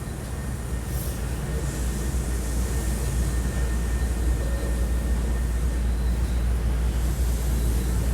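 Steady low hum and even rumble inside a Hankyu 1300 series train car standing at a station while waiting to depart.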